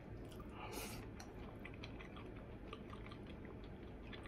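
A person chewing a mouthful of stir-fried pork, green pepper and daikon over rice, with faint wet mouth clicks throughout and a brief louder wet smack about a second in.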